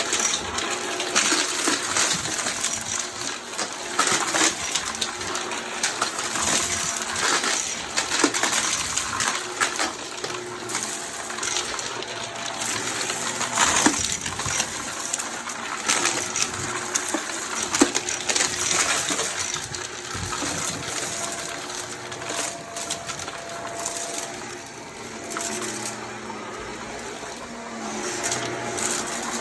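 Vacuum cleaner running while it picks up debris, with many clicks and crackles as bits rattle up through the nozzle and hose over the steady motor hum.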